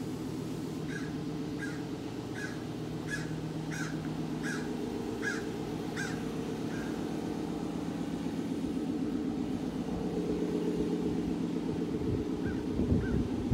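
A bird calling in a quick run of about nine short calls, roughly one every three quarters of a second, with a few fainter calls near the end. A steady low mechanical hum runs under it.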